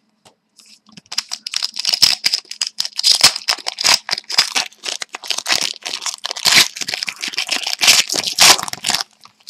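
A trading card pack's wrapper being torn open and crinkled, with cards rustling and clicking as they are handled.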